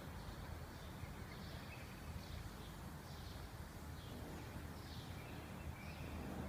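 Outdoor background with a steady low rumble, over which a bird gives short, faint chirps repeated roughly once a second.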